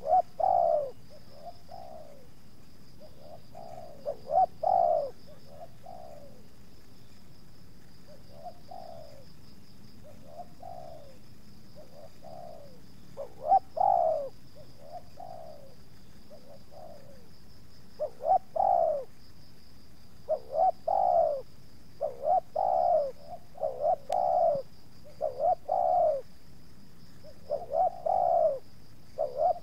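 Spotted doves cooing repeatedly, in short phrases of two or three notes, with the calls coming more often in the second half.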